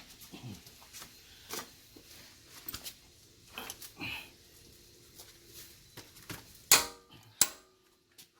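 Scattered metallic clicks and knocks of hand tools being worked on a car's rear axle bolt, with a loud ringing metal clack about two thirds of the way in and another shortly after.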